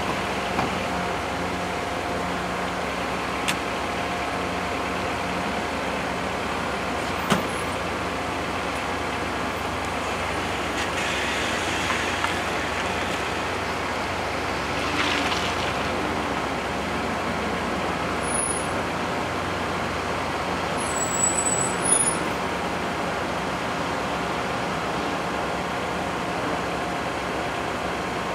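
Steady idling rumble of a stopped NJ Transit diesel commuter train and cars waiting at the crossing, with a few brief hisses of air partway through.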